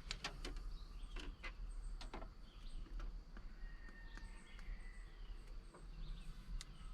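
Faint birds chirping in the open air, with a few sharp clicks and taps in the first couple of seconds.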